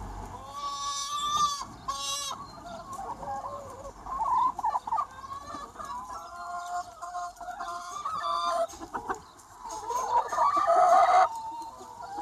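A large free-range chicken flock clucking and calling, many birds overlapping, with a louder drawn-out call near the end.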